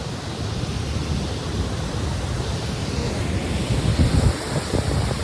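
Steady rush of water from the large Jang Waterfall falling close by, with wind buffeting the microphone in low gusts, strongest about four seconds in.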